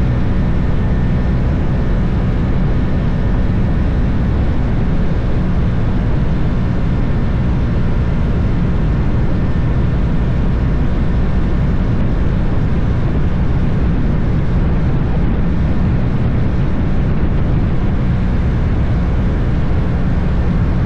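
Husqvarna Vitpilen 401's single-cylinder engine running at a steady speed as the motorcycle is ridden, with a constant noisy rush over it.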